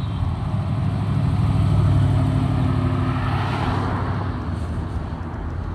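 A C3 Chevrolet Corvette's V8 engine running as the car drives by. It is a low, steady rumble that grows louder until about two seconds in, with a rush of passing noise a second or so later, then fades as the car pulls away.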